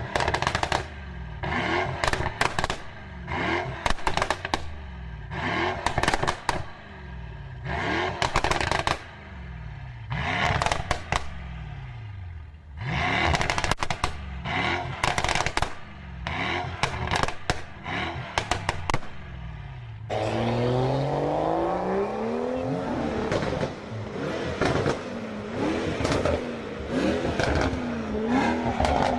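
Mercedes-AMG car engine revved again and again in short blips, each falling back with a burst of exhaust crackles and pops. About two-thirds in it changes to a continuous pull, the engine pitch rising and then going up and down.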